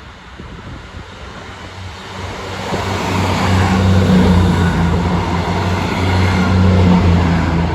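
Diesel multiple unit pulling away under power, its engine note building from about two seconds in, then staying loud and steady until it starts to fade near the end.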